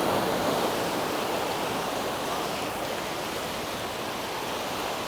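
Small waves washing onto a sandy beach, a steady surf rush that is loudest at first and eases off over the next few seconds.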